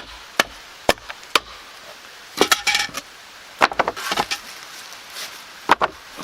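Sharp knocks of a tool striking wood: four evenly spaced blows in the first second and a half, then clusters of clattering wooden knocks about two and a half, four and six seconds in.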